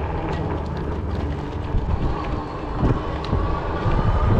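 Wind buffeting the microphone over a low, steady rumble from riding a fat-tire e-bike.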